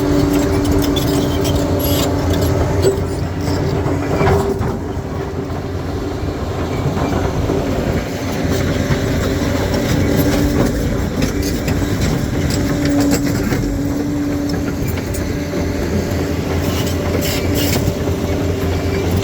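Crawler bulldozer's diesel engine running steadily under load, with the clanking clatter of its steel tracks and occasional sharp knocks of rock against the blade and tracks as it works the rocky road.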